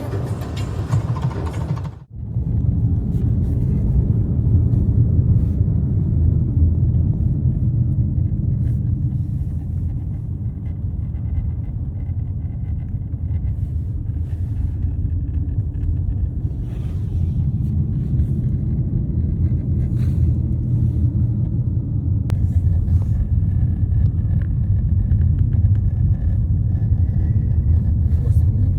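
Steady low rumble of a moving vehicle heard from inside the cabin. It follows a brighter sound that cuts off abruptly about two seconds in.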